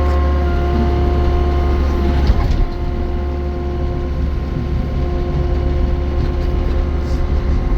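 New Holland E60C excavator's Yanmar four-cylinder diesel running steadily, with a steady whine over the engine rumble. About two and a half seconds in the sound eases slightly and the whine changes.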